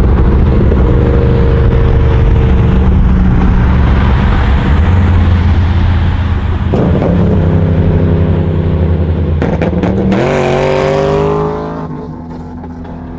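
Car engine under hard acceleration, heard from inside a car's cabin. The note holds steady for several seconds, shifts partway through, then climbs steeply in pitch about ten seconds in before the revs drop and it goes quieter near the end.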